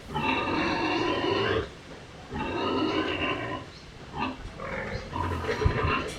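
Farm animal calling: two long calls of about a second and a half each, then several shorter calls.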